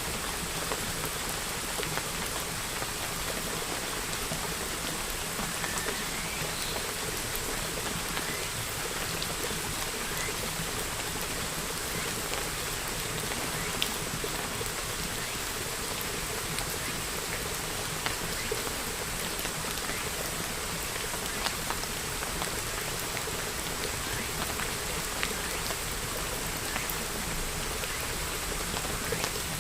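Steady rain falling, with scattered individual drops ticking a little louder.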